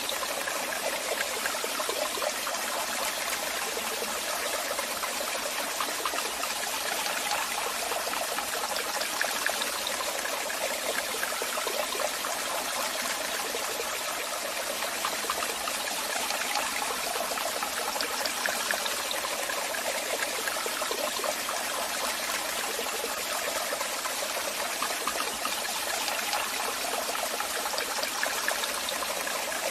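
Waterfall: a steady rush of falling water with fine splashing, bright and without a deep rumble.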